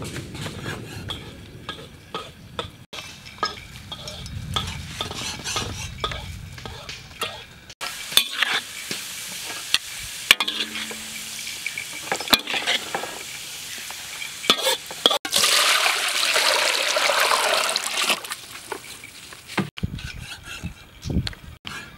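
Cleavers chopping on a wooden chopping block, short sharp knocks; then chopped garlic sizzling as it fries in hot oil in a wok, the sizzle loudest a few seconds before the end; then cleaver chopping resumes near the end.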